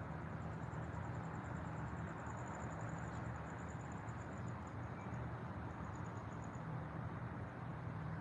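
Outdoor nature ambience: a steady low rumble and hiss, with a thin, very high, rapidly pulsing trill that stops about two-thirds of the way through.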